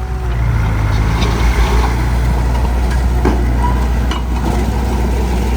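Heavy diesel engine of an earthmoving machine running steadily, with a couple of sharp knocks about three and four seconds in.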